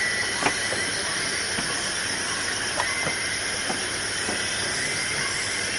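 A steady, dense hiss with several thin high tones running through it, broken by a few faint clicks and short chirps.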